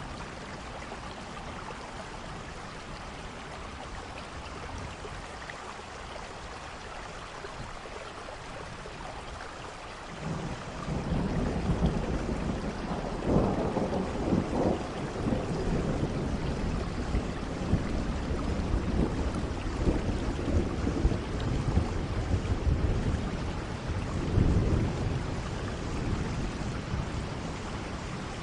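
Steady rain falling, with rolling thunder starting about ten seconds in, a deep rumble that swells a few times.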